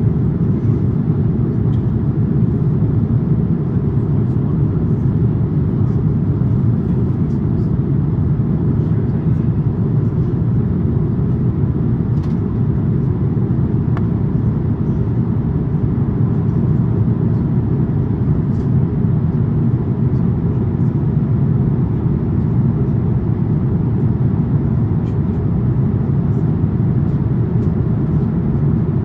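Steady low roar inside the cabin of an Airbus A350-900 in flight: airflow and its Rolls-Royce Trent XWB engines.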